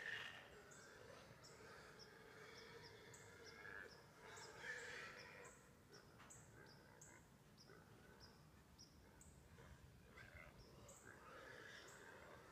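Faint woodland ambience with small birds chirping repeatedly, short high calls every second or so.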